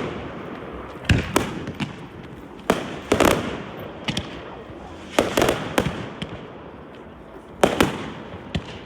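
Fireworks exploding in the sky: about a dozen sharp bangs in clusters every second or two, each trailing off quickly.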